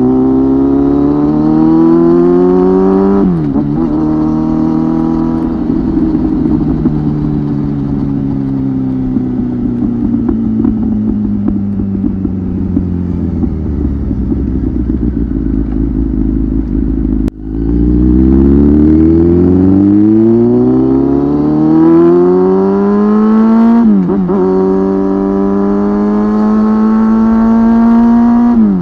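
Kawasaki ZX-10R inline-four through a titanium aftermarket muffler, heard from on the bike: revs climb and drop with an upshift about three seconds in, then the pitch falls slowly as the throttle is rolled off and the bike slows. After a sharp click about halfway through, it accelerates hard again, with two more upshifts near the end.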